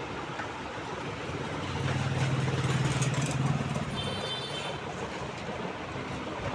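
A motor vehicle's engine rumble swelling and fading, peaking a couple of seconds in, over a steady background of traffic noise.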